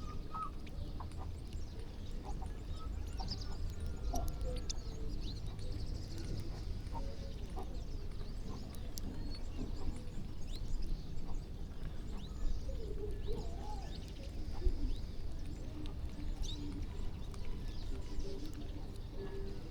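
A flock of birds calling, with many short high chirps and some lower calls scattered throughout, over a steady low rumble.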